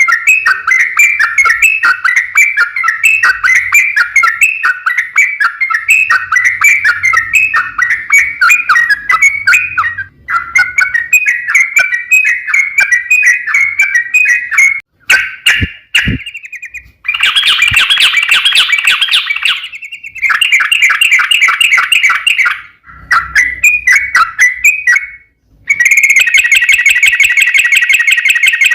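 Yellow-vented bulbul singing long, rapid chattering phrases of bubbly notes, almost without pause, broken by a few short gaps and some sharp clicks about halfway through.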